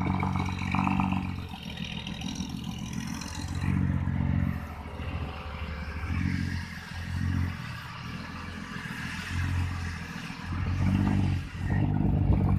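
Diesel engine of a six-wheel dump truck pulling a heavy load of soil up out of a pit, its revs swelling and easing repeatedly as it climbs. It makes the climb smoothly.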